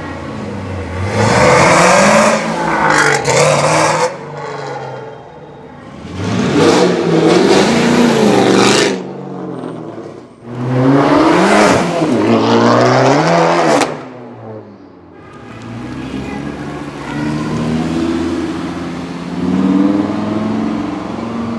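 Performance cars accelerating hard away one after another, each a loud burst of engine revs rising in pitch: a white Ford Mustang, then a Chevrolet Camaro, then an Audi R8 Spyder's V10 revving up near the end.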